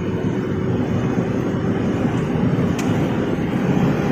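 Vehicle running under way: a steady low rumble with a faint constant hum, growing slightly louder.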